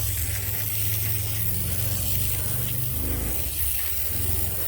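Band sawmill running steadily: a continuous low engine drone with an even hiss over it.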